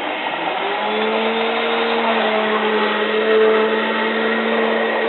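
Hotpoint 9534A washing machine running at the start of a 95-degree boil wash: a steady rushing noise, consistent with water filling, with a steady hum that comes in about a second in.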